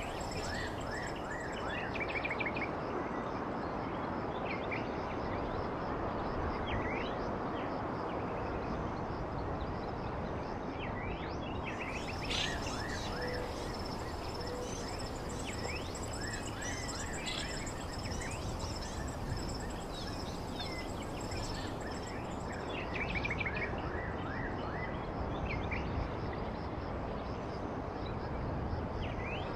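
Small birds chirping in short, quick calls over a steady outdoor background hiss, with a high, even trill running through it.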